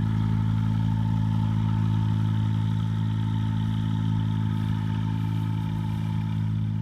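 Viking 110 aircraft engine with a new muffler, running at a steady, even speed.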